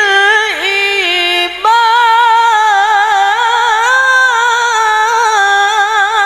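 A woman's voice reciting the Quran in melodic tilawah style, without accompaniment. She holds a long, ornamented note with a wavering vibrato. There is a brief break for breath about one and a half seconds in.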